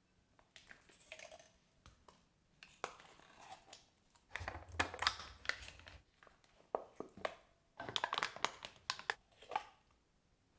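Hands at kitchen work: irregular clusters of sharp taps, scrapes and crinkling rustles, busiest in the middle and again near the end.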